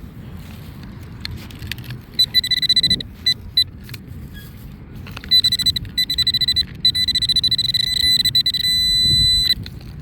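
Nokta AccuPoint pinpointer beeping in rapid pulses, then holding a steady tone near the end before it cuts off, as it closes in on a buried metal target. Wind rumble underneath.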